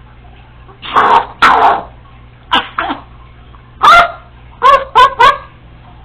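Congo African grey parrot giving a string of short, loud bark-like calls, mimicking a dog. The last three come quickly one after another near the end.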